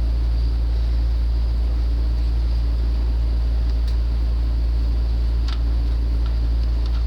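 Steady low mechanical drone, with a couple of faint ticks about four and five and a half seconds in.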